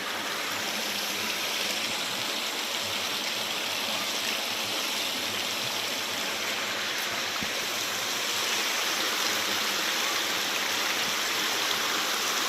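Steady rush of a flowing creek, water running over rocks.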